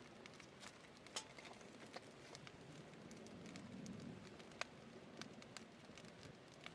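Wood campfire crackling faintly, with irregular sharp pops over a soft low hiss; the loudest pops come about a second in and again about four and a half seconds in.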